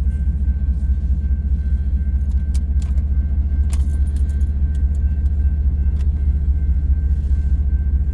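Diesel locomotive engine running hard with a steady, fast-pulsing low rumble while straining to start a heavy loaded coal train, with a few sharp clicks.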